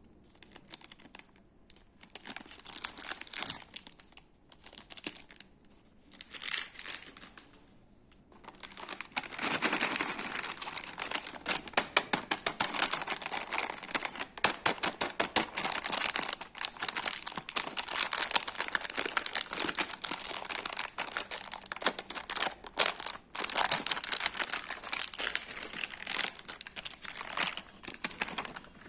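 Snack wrapper crinkling as it is handled. There are a few short bouts in the first eight seconds, then dense, continuous crinkling for the rest.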